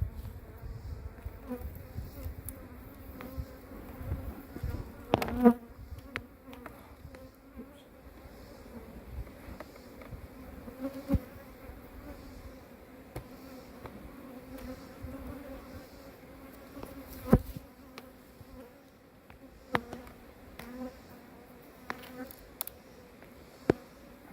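Swarm of honeybees buzzing around an open hive, a steady hum, with a few sharp knocks.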